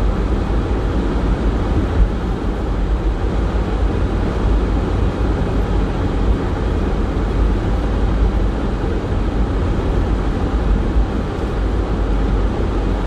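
A car driving: a steady low rumble of engine and tyre noise.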